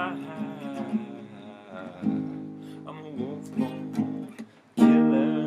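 Acoustic guitar strummed, ringing chords; it nearly stops for a moment about four and a half seconds in, then comes back with a loud strum.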